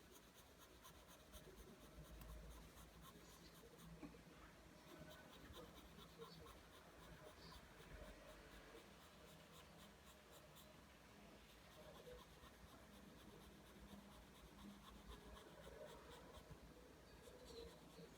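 Pencil drawing lines on paper: faint, repeated scratching strokes.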